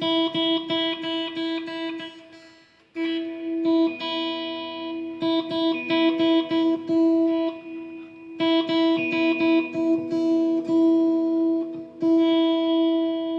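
Electric guitar plugged in and picked repeatedly around one ringing high note, a pickup check in which all three pickups are found to work. The playing breaks off briefly about two seconds in, again near eight seconds and near twelve seconds, as the pickup selector is switched.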